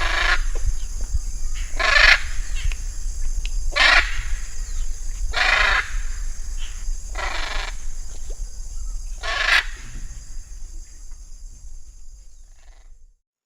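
A bird gives a loud, harsh call six times, about one every two seconds, over a steady high hum. The sound cuts off suddenly near the end.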